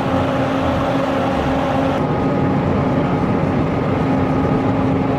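Steady engine noise of a vehicle or craft, a loud drone with a few held tones running evenly throughout.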